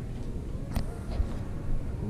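Low steady background rumble with a single light click about three-quarters of a second in and a couple of fainter ticks after it, as parts and packaging are handled.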